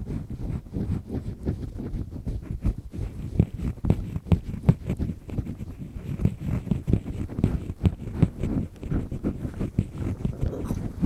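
Double-disc ear pick scraping firmly inside an ear canal, close to the microphone: quick, irregular scratchy strokes, several a second, dull and low-pitched.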